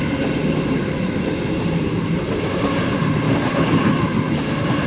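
Sydney Trains A-set Waratah electric train passing through the station: steady running noise of wheels on track with a low motor hum that comes and goes.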